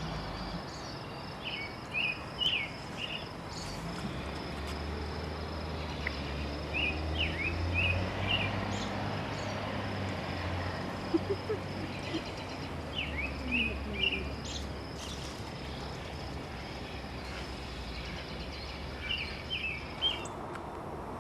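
A songbird sings a short phrase of a few quick chirping notes, repeated about every five to six seconds. Under it run a steady high thin tone and a low background rumble.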